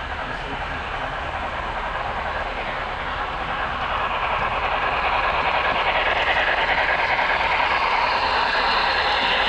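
HO scale model train running along the track, a steady rolling rumble of wheels and motor that grows gradually louder as it draws nearer.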